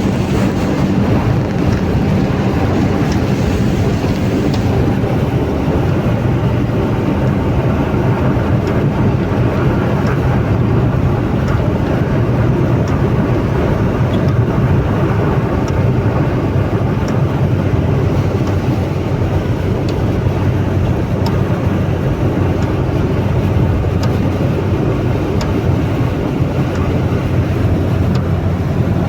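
Steady vehicle rumble with a low, even hum.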